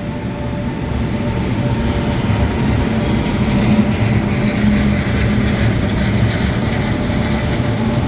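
Electric multiple unit running along the platform road: a steady rail rumble with a faint even whine, growing a little louder over the first few seconds and then holding.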